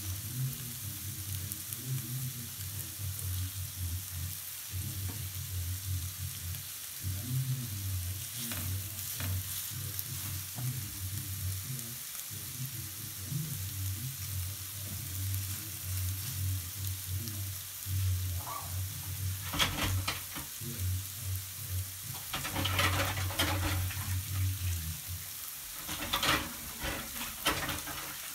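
Frikadellen frying in a little sunflower oil in a stainless steel pan, giving a steady, not very loud sizzle. Clusters of louder crackling and spattering come about a third of the way in, then again from about two-thirds of the way in to near the end.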